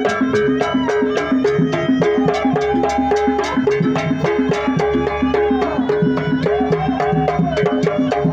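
Jaranan pegon accompaniment music: dense drum strokes over a fast, even pulse of gong-chime tones, with a melody line that bends up and down in pitch.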